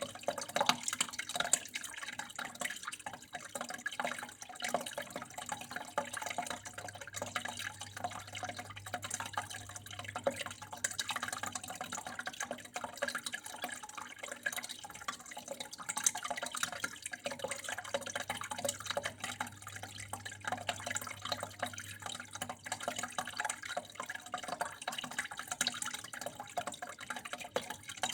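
Water flowing and trickling steadily with many small irregular drips and splashes, over a steady low hum.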